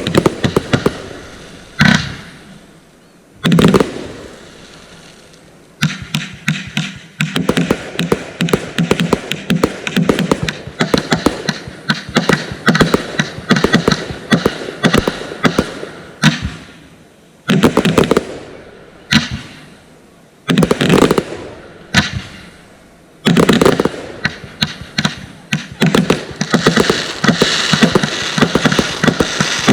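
Consumer firework cakes going off: rapid strings of launches and bursting shells, broken by a few short pauses between volleys. Near the end the bangs run together more densely, with a hiss.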